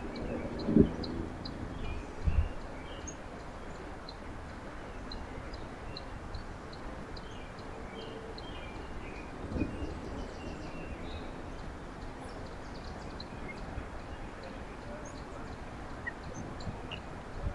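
Small birds chirping in short, scattered calls over a steady outdoor background hiss, with a few low thumps near the start and another about ten seconds in.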